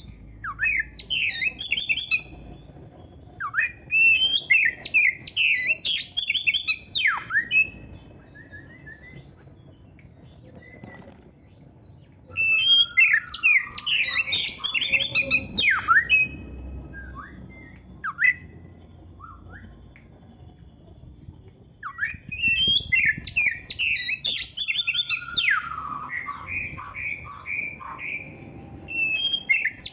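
Oriental magpie-robin (kacer) singing a varied song full of mimicked phrases, in four long bursts of rapid high notes and sharp downward sweeps, with pauses of a few seconds between. Near the end of the last burst comes a run of evenly repeated lower notes.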